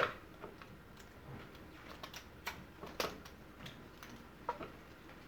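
Scattered light clicks and taps of small plastic parts being handled while the Anki Vector robot's charger is plugged in, the sharpest click right at the start.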